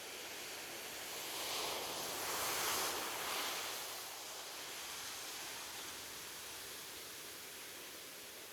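Sea waves on a beach: a steady wash of surf, with one wave swelling louder about a second in and falling away again a few seconds later.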